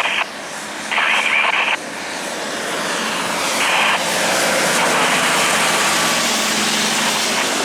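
Volvo FH16 700 heavy-haulage truck's 16-litre six-cylinder diesel pulling a heavy load uphill, its sound growing louder over the first few seconds as it comes closer and then holding steady. A short burst of noise sounds about a second in.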